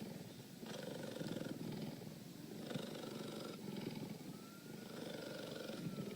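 Cheetah purring: a rough, low, continuous rumble that comes in phases of about a second with short breaks between them, three phases in all, following the animal's breathing in and out.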